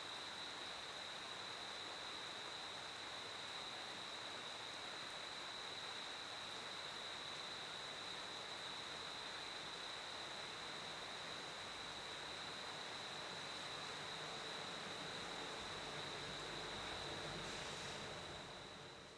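Crickets trilling continuously at one steady high pitch over a steady hiss. The sound drops away abruptly near the end.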